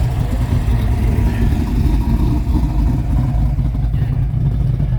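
Old Rambler car driving slowly, its engine and road noise making a steady low rumble.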